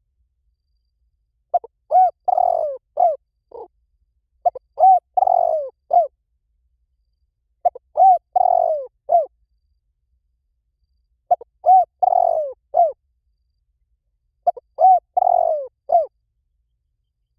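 Spotted dove calling: five cooing phrases about three seconds apart, each a few short, bending coos with a longer one in the middle, over a dead-silent background. It is a call recording of the kind played as a lure to draw spotted doves in.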